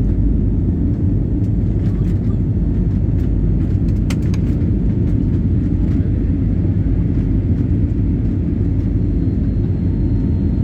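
Airliner cabin noise during takeoff and climb: the jet engines and rushing air as a steady, loud low rumble, with a faint click about four seconds in.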